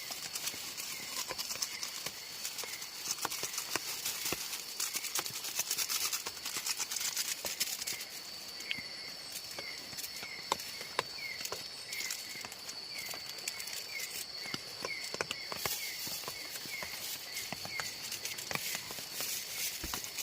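Outdoor ambience with a steady high insect drone and many small crackles and clicks, as of movement through undergrowth. In the middle a short chirp call repeats about every half second for several seconds.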